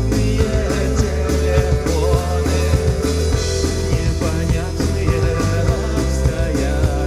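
Rock band playing live: a steady drum beat over sustained low bass notes and amplified instruments.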